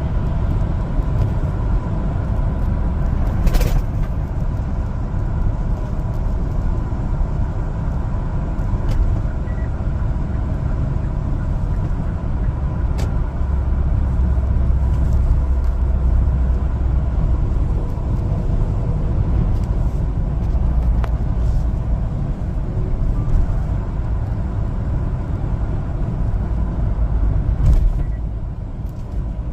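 One-ton LPG cargo truck driving on the road: a steady low engine and road rumble, with a few brief clicks or knocks.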